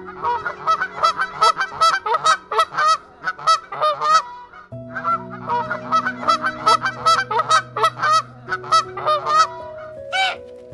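A flock of domestic geese honking: many short, rapid calls overlapping one another, with a brief lull about four seconds in. Soft background music with held chords plays underneath.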